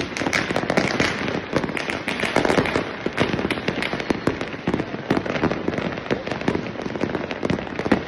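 Dense, continuous crackling and banging of fireworks and firecrackers going off all around a city, many overlapping bangs with no pause.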